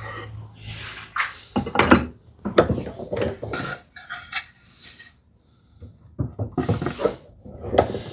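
A hand tool scraping and shaving the end of a wooden tenon in short, irregular strokes, in two spells with a pause in the middle. The tenon's edges are being eased so it starts into the mortise without splitting.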